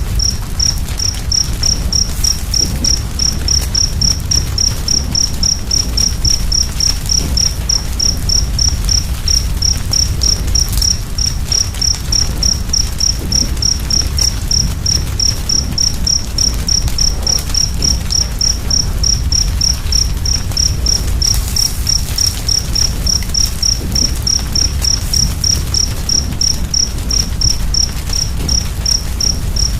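A cricket chirping steadily, about three chirps a second, over the low rumble and soft crackle of a wood fire.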